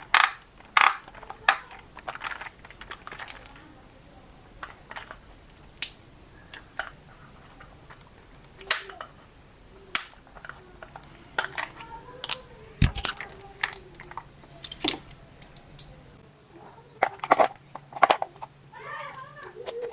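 Irregular sharp clicks and knocks of hard objects being handled, with one heavier thud about two-thirds of the way through and a faint voice near the end.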